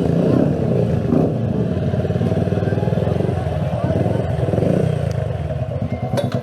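Keeway CR152's single-cylinder four-stroke engine running through a loud exhaust. Near the end it settles to a lumpy idle of about five beats a second.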